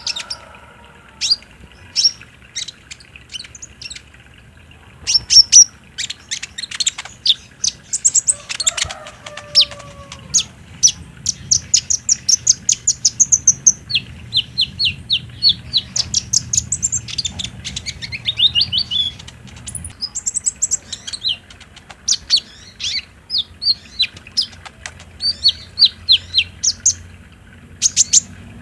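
Kolibri ninja sunbird singing its 'trotol' song: high, sharp chirps strung into fast rattling trills in bursts, some runs sliding down in pitch, over a faint steady low hum. It is the continuous song played as a lure to get other kolibri ninja to answer and sing.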